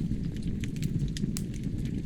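Wood logs burning in a fireplace: a steady low rush of flame with frequent sharp crackles and pops scattered through it.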